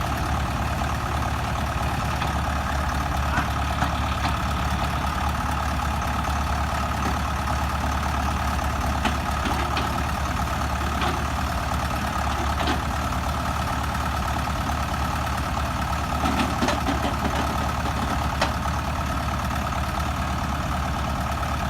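Tractor engine running steadily, with a few faint clicks.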